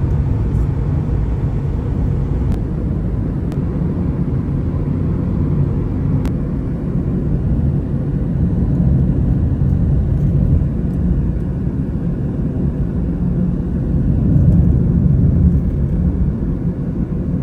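Steady low rumble of a vehicle driving along the road, engine and road noise without change in pace.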